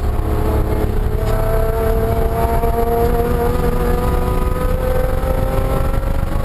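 BMW E36 M3 race car's straight-six engine accelerating, heard from inside the stripped, caged cabin. The revs climb slowly and steadily through one gear over a heavy low rumble.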